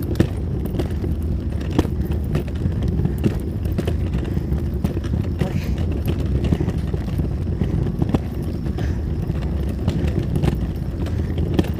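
A walker rolling over pavement while the user walks: a steady low rumble with irregular clicks and knocks.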